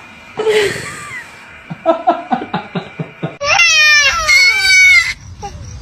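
A small child's voice: a run of short, laugh-like bursts, then loud high-pitched squealing cries that slide down in pitch.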